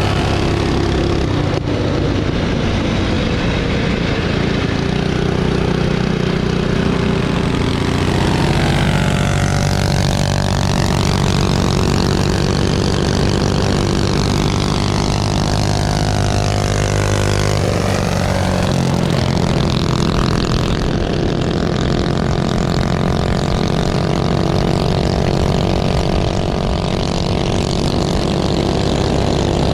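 Minibike engines running hard and steady, with a higher engine note that dips and rises again twice.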